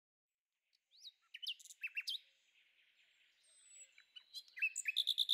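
Small birds chirping and whistling faintly: a few scattered short chirps about a second in, then quicker chirps and a fast run of repeated notes near the end.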